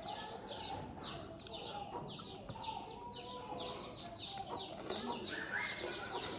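Chickens clucking, over a steady run of short, high, falling chirps repeating about twice a second.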